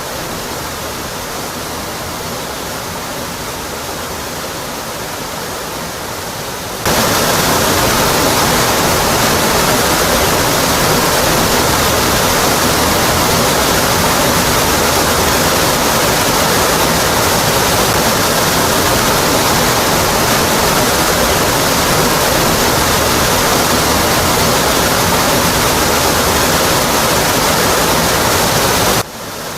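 Waterfall: a steady, full rush of water pouring onto rock. It turns abruptly louder about a quarter of the way in and drops back just as abruptly shortly before the end.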